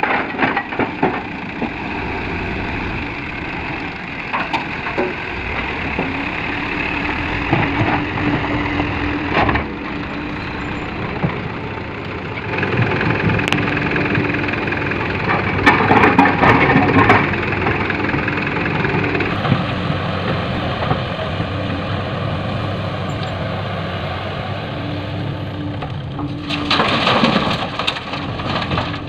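Mountain stone being loaded into a Canter dump truck's bed, with rocks clattering and cracking against the bed and on each other over a steady running diesel engine. The clatter comes in heavier spells about halfway through and again near the end.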